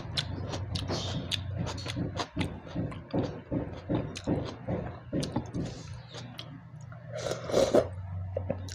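Close-miked eating: irregular wet clicks and smacks of food being chewed, over a low steady hum.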